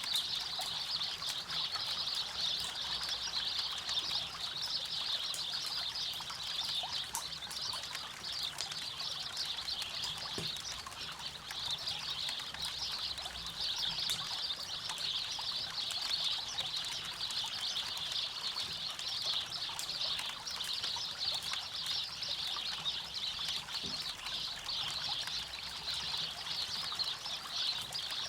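River water running steadily, with scattered small crackles and pops from a campfire.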